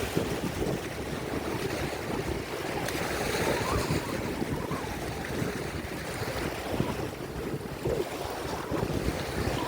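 Rough lake waves rolling in and washing on the shore, in a steady rushing swell that builds and eases, with wind buffeting the microphone.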